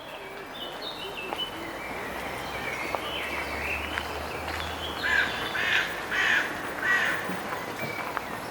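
Small birds chirping in park woodland, then four loud, harsh caws about half a second apart near the middle, from a crow-type bird.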